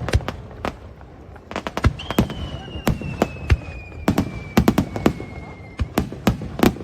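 Aerial fireworks bursting: an irregular series of sharp bangs, some in quick clusters, with one long whistle slowly falling in pitch for nearly four seconds, beginning about two seconds in.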